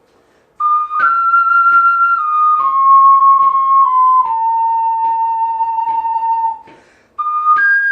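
Solo ocarina playing a descending phrase of separately tongued notes that ends on a long held note. After a short breath it starts the next phrase near the end.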